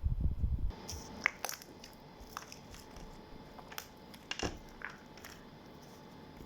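Homemade glue slime being pressed and worked by hand to make air bubbles, with a few low handling thumps at first, then scattered sharp pops and clicks.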